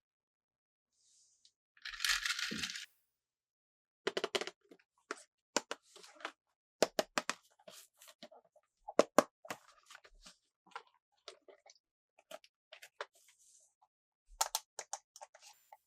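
Toy packaging handled by hand: a short tearing rip about two seconds in, then a long irregular run of sharp crackles and clicks.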